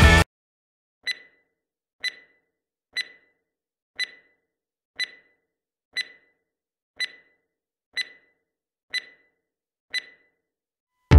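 Countdown timer beeps: ten short, high electronic beeps, one a second, counting down the last ten seconds to the next workout interval. Background music cuts off just before the first beep and comes back right after the last.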